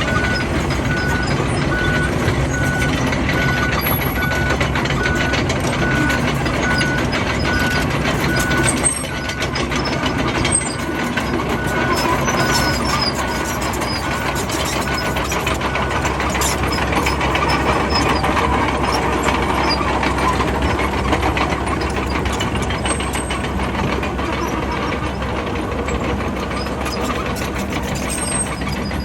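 Bulldozer's diesel engine running under load while its reversing alarm beeps steadily, under two beeps a second. The beeping stops about nine seconds in, comes back briefly a few seconds later, and then the machine runs on without it.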